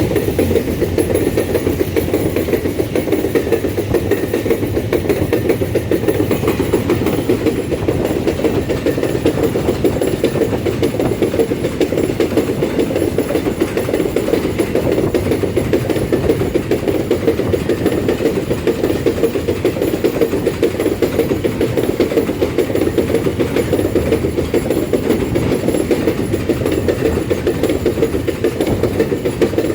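Empty iron-ore freight wagons rolling past on the rails, a loud and steady rolling noise.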